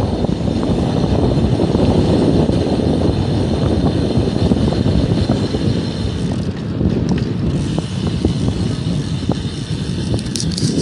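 Bicycle coasting fast down a steep hill: wind buffeting the phone's microphone over the rush of the tyres on the road, with a few sharp high clicks near the end.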